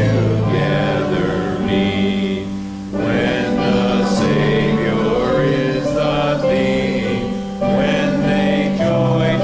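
Congregation singing a hymn together over a steady accompaniment, with short breaks between lines about three seconds in and again about seven and a half seconds in.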